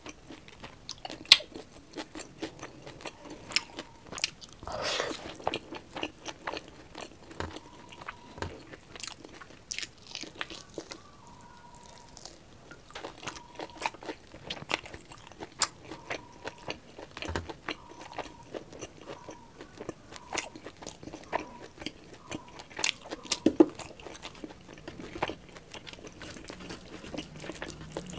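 Close-miked chewing and lip smacking of a mouthful of rice and curry eaten by hand, with many sharp, wet mouth clicks.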